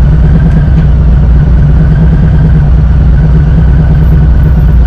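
Harley-Davidson V-twin motorcycle engine running with a loud, steady low rumble and no change in pitch.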